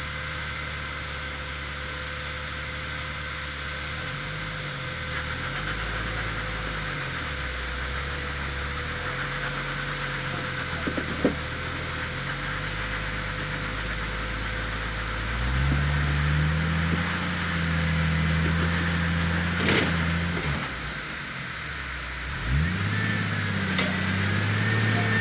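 An engine running, its pitch rising and falling several times and getting louder later on, over a steady hiss.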